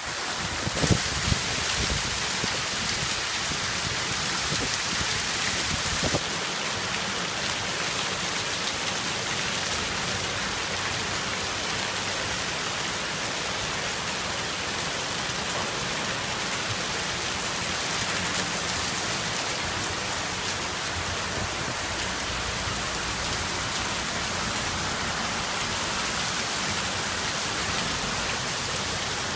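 Heavy rain mixed with hail pelting a street in a violent thunderstorm: a dense, steady hiss. A few low thumps at the very start; about six seconds in the sound drops a little and settles into an even downpour hiss.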